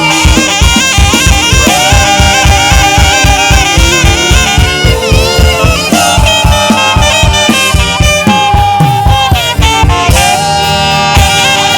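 Saxophone playing a melody of long held notes with some bends, over a live band with a steady drum beat of about four hits a second.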